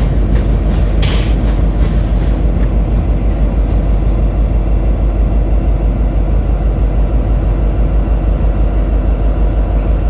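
Union Pacific train rolling past, its cars giving a steady, loud low rumble of wheels on rail, with a short hiss about a second in.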